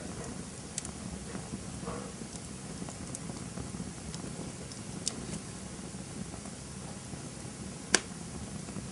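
Campfire burning with a steady low rumble and scattered sharp crackles and pops. The loudest pop comes about eight seconds in.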